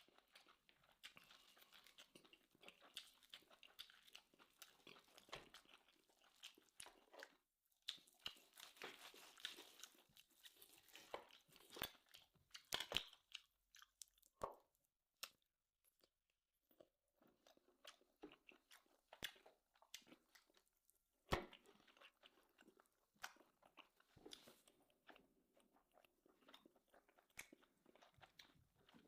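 Quiet, close-up chewing and crunching of food in a person's mouth, mukbang-style, with irregular wet clicks and crackles and a few sharper crunches.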